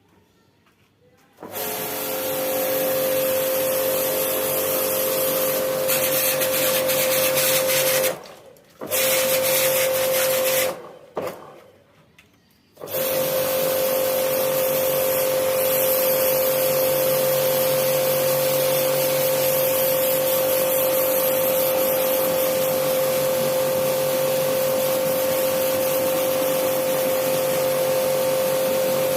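A small electric motor-driven machine switches on and runs with a steady whine. It cuts out twice briefly, then runs on without a break.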